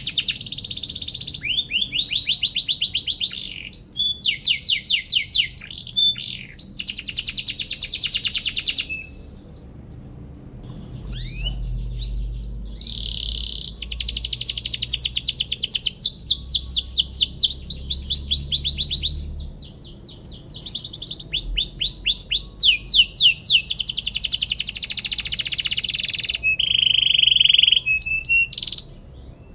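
Domestic canary singing long phrases of fast trills and chirps, with short pauses between phrases.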